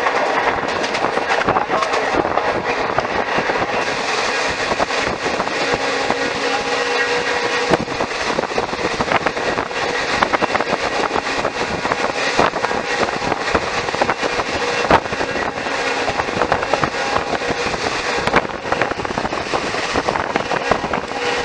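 Train running through a station, heard from aboard a moving coach: a continuous rumble of wheels on rail with irregular clicks and knocks as the wheels cross rail joints and points. A steady hum runs under it and fades about a third of the way in.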